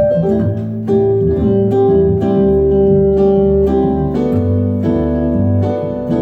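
Instrumental passage on a plucked string instrument: a melody line over repeating bass notes, with no singing.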